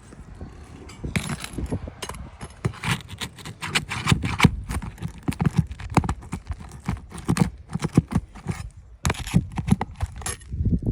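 Irregular knocks, taps and scuffs of hands and tools working on a roof shingle, starting about a second in and going on with short pauses.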